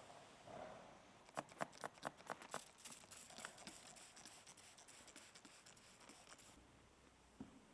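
A quick run of about half a dozen sharp, light clicks about a second and a half in, then fainter scattered clicks over a quiet hiss.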